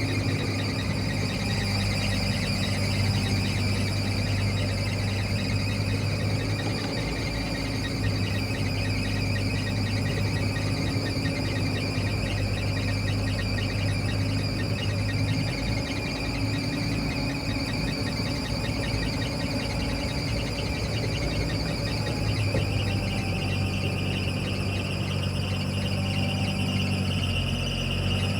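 Old truck's engine running with a squeaky fan belt, giving a steady high-pitched squeal over the engine's low hum.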